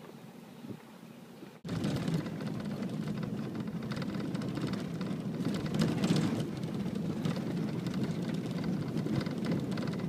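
Blizzard wind rushing and buffeting, loud and gusty, coming in abruptly at a cut about a second and a half in after a quieter hiss.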